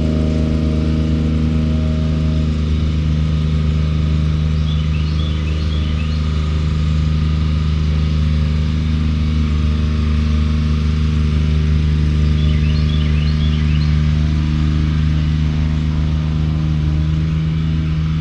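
An engine running steadily with a low, even drone. Clusters of short high chirps come in about five seconds in and again about thirteen seconds in.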